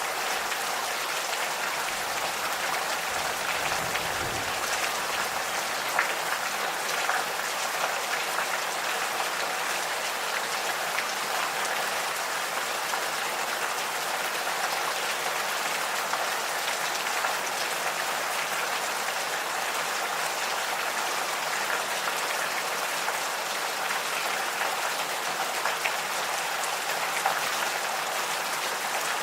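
Steady gentle rain, with a dense patter of drops throughout. A brief low rumble comes about four seconds in.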